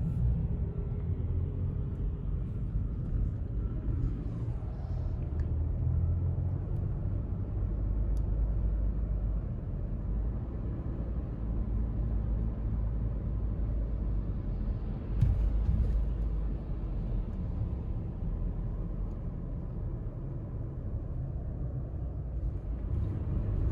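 Steady low rumble of a car's engine and tyres on the road, heard from inside the cabin while driving, with one brief knock about fifteen seconds in.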